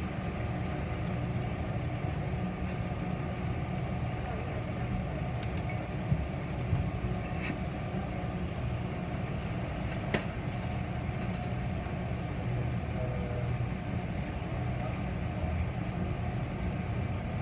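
Steady low hum and rumble inside a Metra commuter rail passenger car, with a few short clicks and knocks scattered through it.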